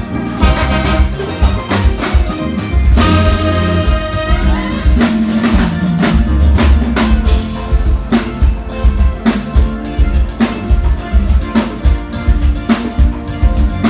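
A live band playing through a soundcheck, the drum kit keeping a steady beat with regular hits. About three seconds in, a held pitched note rings for a second or so and then slides downward.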